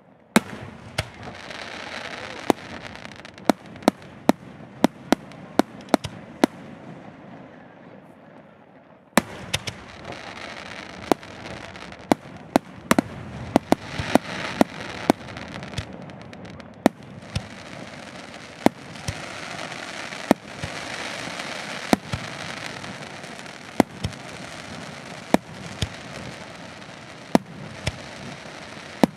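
Firework display: aerial shells bursting in quick, irregular succession, dozens of sharp bangs over a continuous rushing crackle. There is a short lull shortly before ten seconds in, then the bangs resume abruptly.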